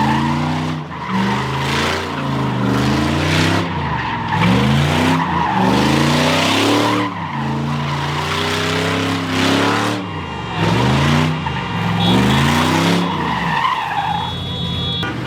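Car doing donuts on pavement: engine revving up and dropping back over and over, about every second and a half, with tires squealing and skidding throughout.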